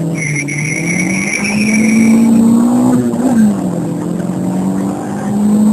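Citroën Saxo VTS's 1.6-litre 16-valve TU5J4 four-cylinder engine accelerating hard, heard from inside the cabin. Its note climbs, drops a little after three seconds in at an upshift, then climbs again. A high steady whine sounds over it for the first two seconds.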